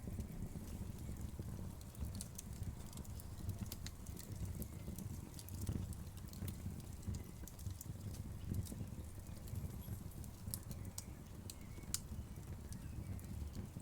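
Wood fire burning with a low steady rumble of the flames and scattered sharp crackles and pops from the burning wood.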